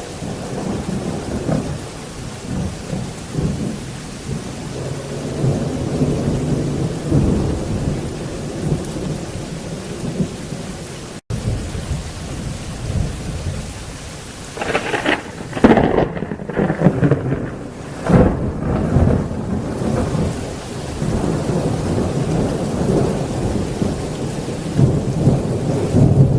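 Thunderstorm with heavy rain and continuous rolling thunder. About fifteen seconds in, a louder, sharper thunderclap breaks out, the loudest moment, followed by further rumbling.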